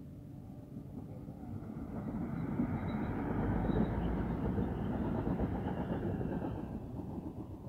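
Chinese-built diesel multiple unit passing close by: the rumble of its engine and wheels on the track builds up, is loudest about three to six seconds in, then fades as the train moves away.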